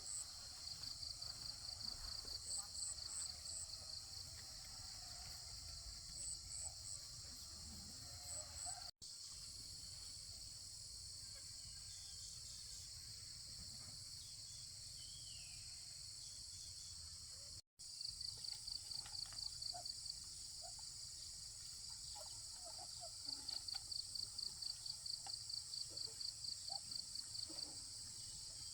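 Outdoor insect chorus: a steady high-pitched buzzing drone with runs of rapid pulsed chirps, about five a second, that come and go, over a low rumble. The audio cuts out abruptly twice.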